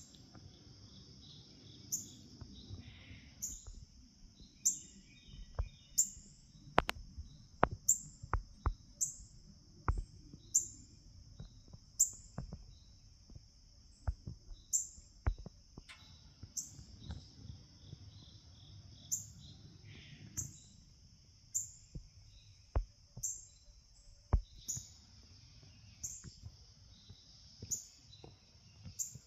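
A songbird giving sharp, high chip notes over and over, about one a second, over a steady high insect drone. A scatter of sharp clicks comes in the first half and once more later.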